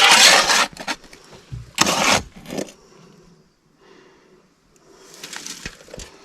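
Metal scoop scraping ash and soot out of a stove, three short harsh scrapes spread over several seconds.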